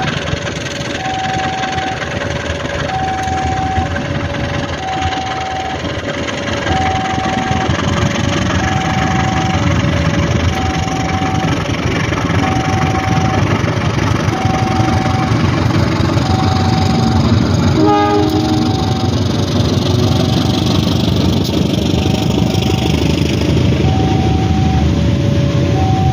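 A diesel-hauled passenger train rolls past with a steady engine and wheel rumble that grows slightly louder as the coaches pass close by. Over it, a level-crossing alarm alternates a high and a low note, about one pair every second and a half. About two-thirds of the way through there is a brief sharp sound.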